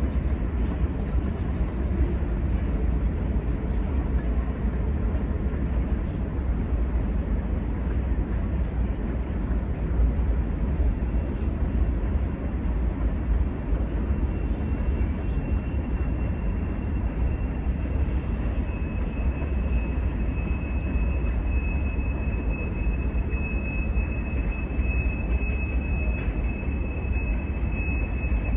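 Norfolk Southern manifest freight train rolling slowly across a stone arch bridge: a steady low rumble of wheels on rail. A thin, steady high squeal comes in a few seconds in, with a second, lower one joining near the middle and growing louder.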